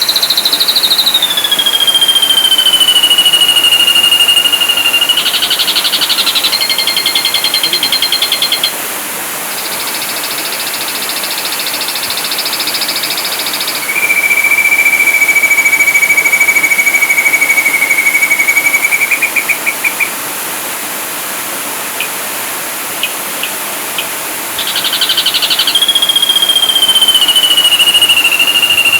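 Ashy drongo singing: long clear whistles, one sliding down in pitch and another held steady for several seconds before breaking into a quick trill, with rapid rattling trills, a buzzy passage and a few sharp clicks in between.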